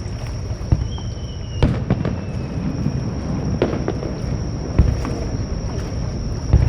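Fireworks display: five sharp bangs of shells bursting one to two seconds apart, over a steady low rumble. About a second in comes a faint high whistle gliding slowly down.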